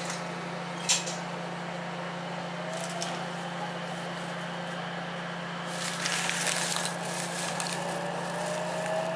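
Cab and running noise of a 7000 series electric railcar pulling away from a station: a steady low hum with a click about a second in and a burst of hiss around six seconds, and a faint motor whine rising in pitch near the end as the train gathers speed.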